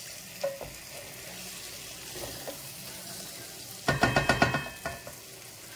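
Prawns sizzling gently in masala paste over low heat, sautéed before any water goes in. About four seconds in comes a quick run of roughly eight ringing knocks and scrapes of the stirring spoon against the pan.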